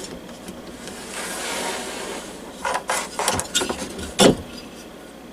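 Handling noises from the parts of a diesel heater being taken apart by hand: a brief scraping rustle, then a run of clicks and knocks, the loudest a single sharp knock about four seconds in.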